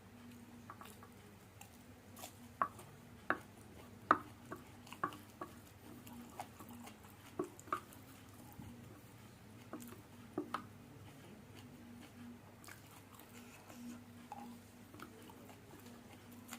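Close-miked eating of fried noodles: quiet chewing with a dozen or so sharp clicks and taps scattered through, over a faint steady hum.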